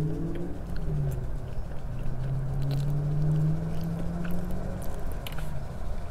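Close-miked chewing of a hot dog, with small wet mouth clicks. Under it runs a low rumble and a low drone that rises and dips, loudest from about two to four seconds in.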